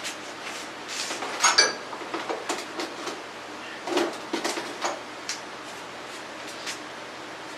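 Metal tools and parts being handled: irregular clicks and clinks, with one loud clank that rings briefly about a second and a half in.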